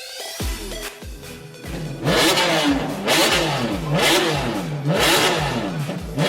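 Car engine revved over and over, its pitch rising and falling about once a second, getting loud about two seconds in after a quieter start with low thumps.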